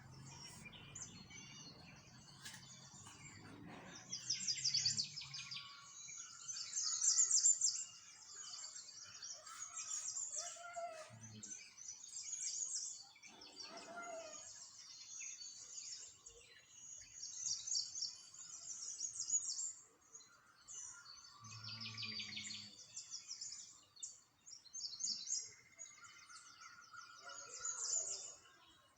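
Small songbirds chirping and twittering in quick high-pitched trills, one burst after another with short gaps, loudest a few seconds in. A faint low hum sits under them at the start and again about two-thirds of the way through.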